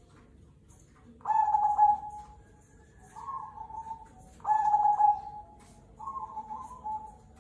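Cemani Kolbuntet zebra dove (perkutut) cooing. Two loud coos, about a second in and again at four and a half seconds, each followed by a softer, slightly higher coo.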